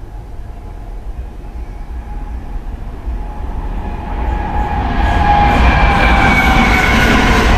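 A train approaching on Indian Railways track, its noise building over the first few seconds to a steady loud rush, with high tones from the wheels and rails sliding slowly downward in pitch.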